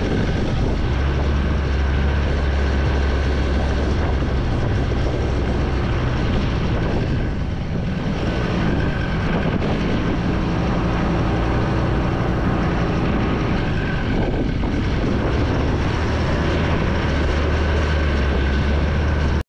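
KTM 390's single-cylinder engine running steadily as the motorcycle rides along, with wind rushing over the microphone; the engine note eases briefly around the middle, and the sound cuts off suddenly at the end.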